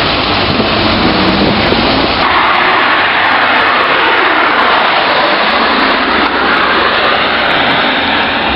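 A sports car's engine and road noise, loud and rough, with a rushing, noisy quality that changes in tone about two seconds in.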